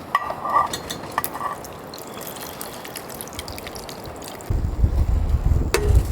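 A few light clicks and short ringing clinks, then, about four and a half seconds in, a sudden gust of wind buffets the microphone with a loud, low rumble.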